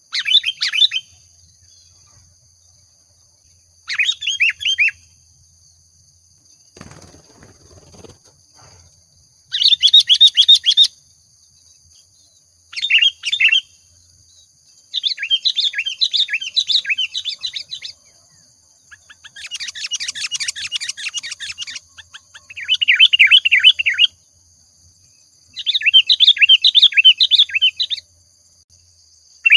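Sooty-headed bulbul (kutilang) singing in repeated bursts of rapid, chirping phrases, each burst one to three seconds long with short pauses between them. A faint steady high-pitched whine runs underneath, and a brief soft rustle comes about seven seconds in.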